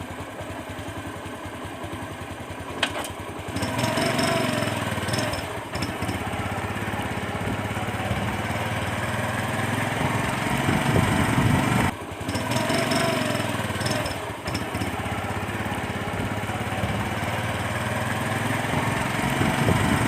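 Small motorcycle engine ticking over, then pulling away about three and a half seconds in and running steadily under way, with a short dip in engine sound just before twelve seconds before it picks up again.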